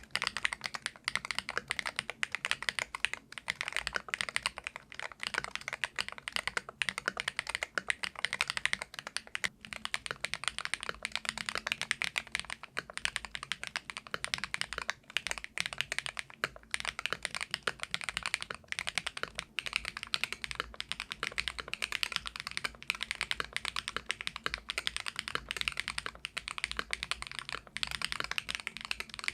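Fast, continuous typing on an ATK Air-series gaming keyboard with Ice Blade magnetic switches: a dense, steady stream of keystroke clacks.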